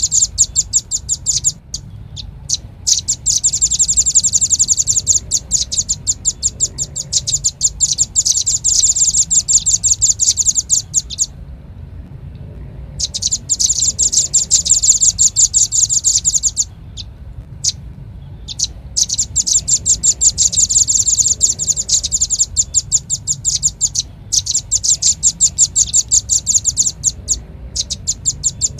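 Velvet-fronted nuthatch calls: fast trills of sharp, high chips in runs of several seconds, broken by short pauses with a few single chips, over a low hum. It is a lure call meant to draw in the same species.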